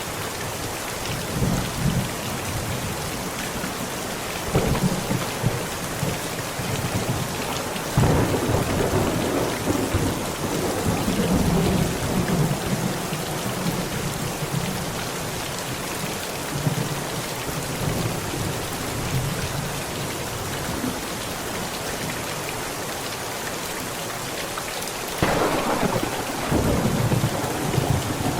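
Heavy rain pounding steadily on a tent, with thunder rolling through it: short rumbles early, a long low roll about a third of the way in, and a sudden louder clap near the end that rumbles on.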